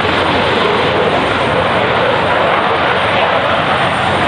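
Eurofighter Typhoon's twin EJ200 turbofan engines: a loud, steady jet roar.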